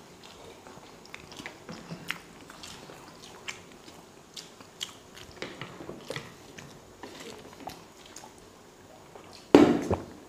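People chewing and biting into boiled eggs: soft wet chewing with scattered small clicks. A brief louder burst comes near the end.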